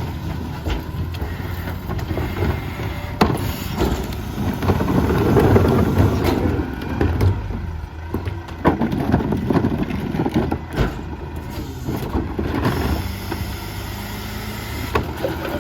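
Mack MRU rear-loader garbage truck with a McNeilus body, its engine running steadily under scattered clanks and knocks. It grows louder for a few seconds about a third of the way in.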